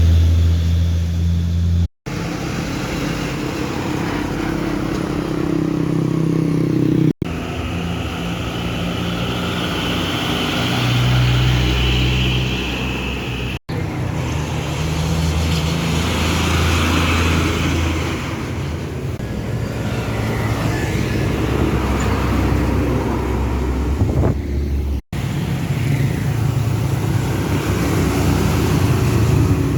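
Heavily loaded trucks' engines running, heard in a series of short clips, each ending in a sudden brief gap. The engine note holds steady for several seconds at a time, then changes pitch.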